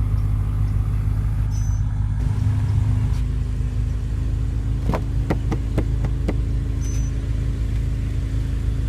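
The BMW M5 F10's twin-turbo V8 idling, a steady low hum heard inside the cabin. About five seconds in comes a quick run of about six sharp clicks.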